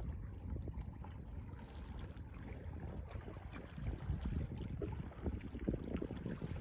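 Sea waves washing on the shore, mixed with wind rumbling on the microphone that rises and falls unevenly.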